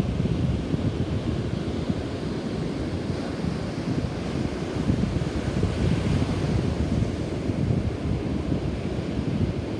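Wind buffeting the microphone in gusts over the wash of rough surf breaking on the shore, stirred up by a nearby typhoon.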